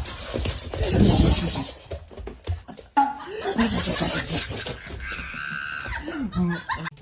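People laughing and voices, with an abrupt cut about three seconds in.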